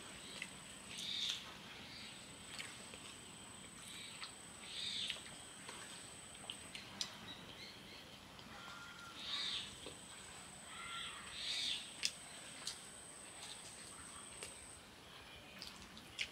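People chewing and eating rice with their hands: soft wet mouth sounds and small clicks, with a few louder smacking bursts, over a thin high whine that comes and goes.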